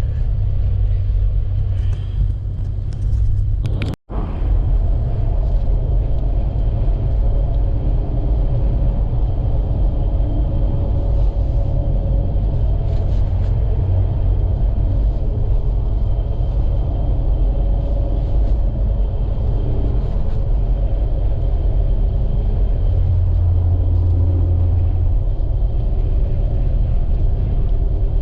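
Steady low rumble of a vehicle driving in strong wind, the road and engine noise mixed with wind buffeting. It cuts out for an instant about four seconds in.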